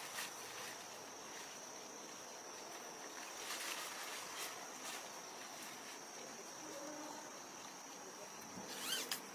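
Insects trilling on one steady high note, with a few soft rustles and clicks; the loudest rustle comes near the end.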